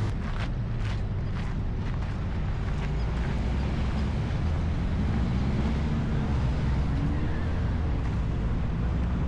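Steady low rumble of passing road traffic, with a faint rising engine tone about midway. A run of short, evenly spaced ticks, about two a second, falls in the first three seconds.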